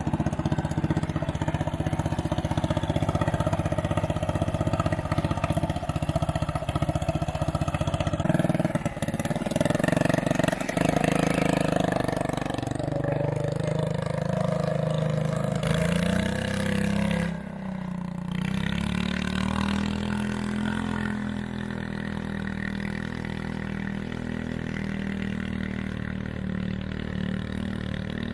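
John Deere 210 lawn tractor's small engine running as the tractor is driven. Its speed rises and falls in the middle, then settles to a steady run.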